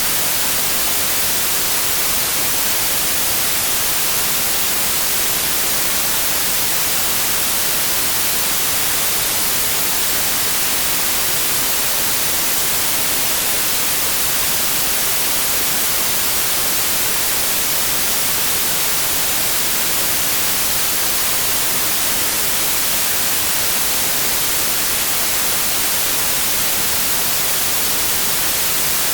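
Pure synthetic white noise: a steady, even hiss across all pitches that does not change.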